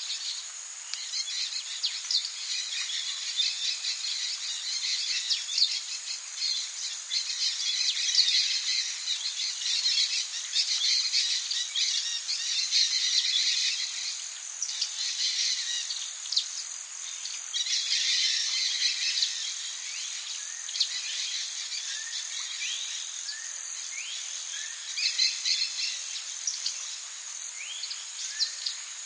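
Tropical rainforest ambience: a steady, high insect drone with many quick bird chirps and calls over it.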